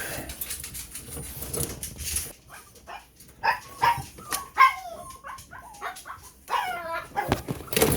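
Small dogs giving short, high-pitched yips and whines in two bouts, the first a few seconds in and the second near the end, over some rustling handling noise.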